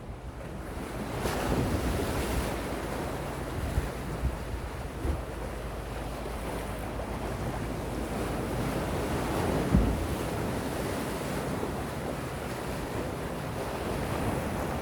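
Gentle sea waves washing onto the shore in a steady wash, with wind rumbling on the microphone and a short low thump of wind just before ten seconds in.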